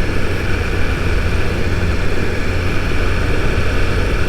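2022 BMW S1000RR's inline-four engine running steadily at an even cruising speed, with no revving up or down.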